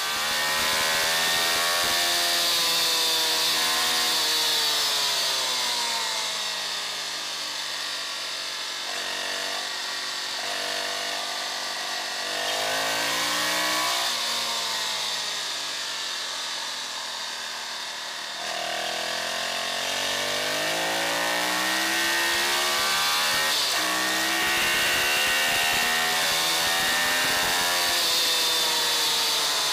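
Ducati Streetfighter's V-twin engine on the track, revving up and easing off through corners, its pitch climbing and then dropping sharply at gear changes several times, over a steady rush of wind noise.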